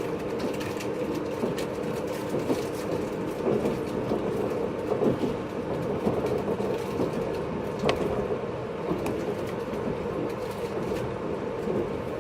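JR 583 series electric train running, heard from inside a motor car (MoHaNe 582): a steady running rumble with scattered wheel-and-rail clicks. A faint steady hum fades out about halfway through, and a single sharp knock comes about eight seconds in.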